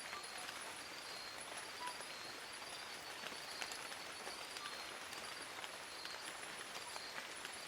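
Steady rain falling on forest leaves: an even patter with many single drops ticking sharply. A high, pulsing chirr at two pitches runs through it.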